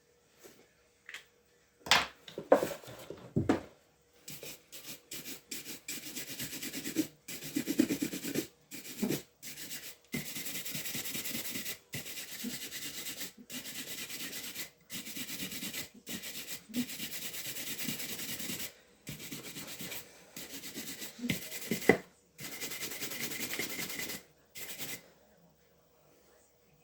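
Rubbing strokes on a shoe with an abrasive or brush, in runs of steady scraping broken by short pauses. A few sharp knocks of handling come about two to three seconds in.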